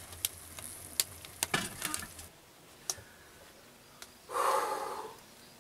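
Meat frying in a pan: a crackling sizzle with scattered pops that cuts off suddenly about two seconds in. About two seconds later comes a short rush of breathy noise.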